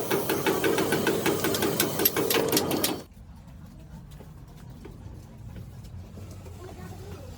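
A small machine running with a fast, even ticking of about nine strokes a second, which stops abruptly about three seconds in, leaving faint scattered ticks.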